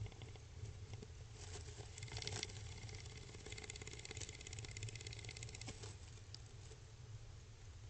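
Starling moving inside a nest box: a run of rapid clicking and scratching for about four seconds, starting a second and a half in, over a faint steady low hum.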